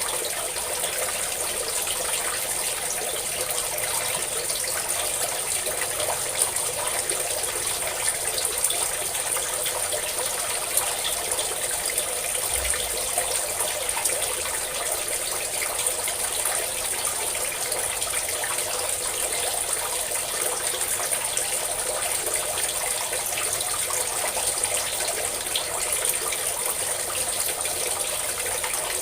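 Water pouring and splashing steadily.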